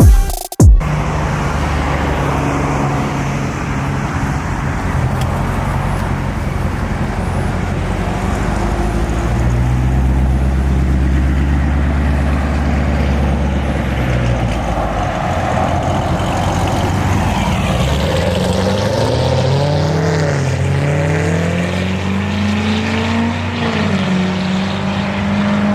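Car engine running, steady at first, then revving, its pitch rising and falling repeatedly in the last third as it is driven.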